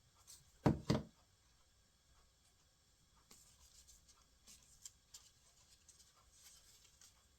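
Paper craft pieces being handled on a table: two sharp knocks a little under a second in, then light paper rustling and scraping.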